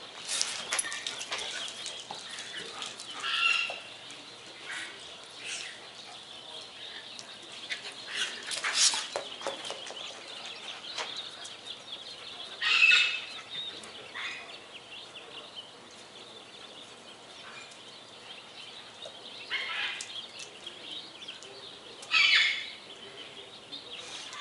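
Bird calls: a handful of short calls spaced several seconds apart, the loudest near the middle and near the end.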